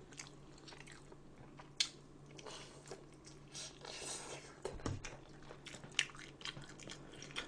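Close-miked chewing and biting: irregular crunches and wet mouth clicks of a person eating.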